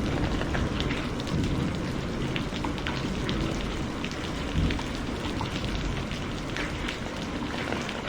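Heavy rain falling steadily, with many separate drop hits ticking close by over a low, rumbling wash.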